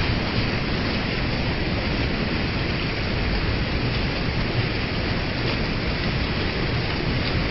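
River waterfall with water rushing in a steady, unbroken stream.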